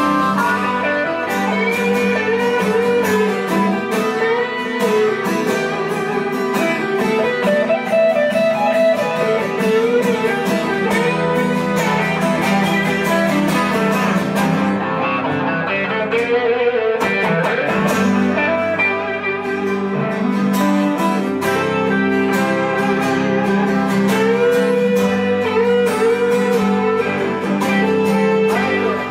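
Blues guitar instrumental break: a lead guitar plays bending melodic lines over steady chord accompaniment.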